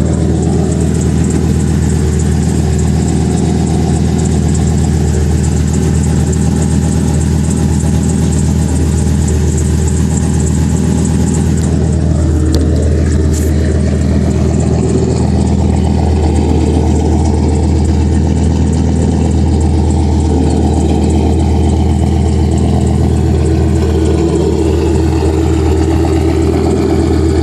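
Ford Triton 6.8 L V10 running steadily at idle through a 3-inch stainless exhaust with an Aero Turbine AT3030 muffler and dual side-exit tips. There is a brief click about halfway through.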